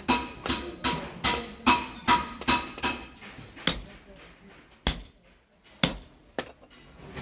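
Hammer blows on steel at an anvil while forging a billhook blade, each strike ringing: a steady run of about eight blows, roughly two and a half a second, then four slower, spaced-out strikes.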